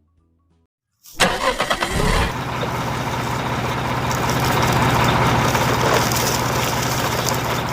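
A vehicle engine cranked by its starter about a second in, catching after roughly a second of rapid cranking and then idling steadily.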